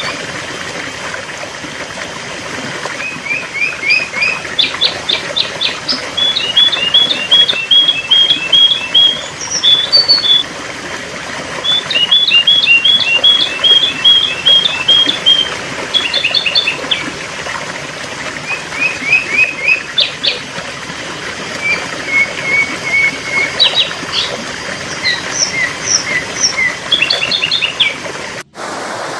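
Sooty-headed bulbul calling: repeated runs of short, bright chirps in quick succession, over a steady hiss. The sound drops out briefly near the end.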